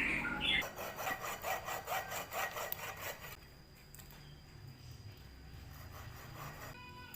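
Quick back-and-forth scraping strokes of a hand tool, about three a second, stopping about three seconds in; a faint low hum follows.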